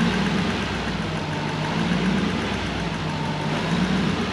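Toyota 1UZ-FE 4.0-litre V8 idling steadily, warmed up with its thermostat open, with the radiator fan running.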